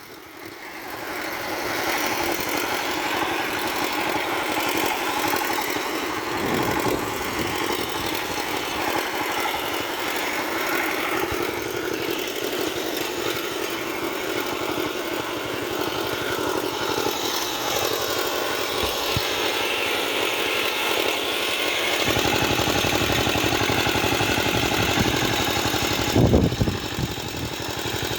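Small farm tractor engine running steadily. Its low rumble grows stronger about three-quarters of the way through, with a brief louder surge near the end.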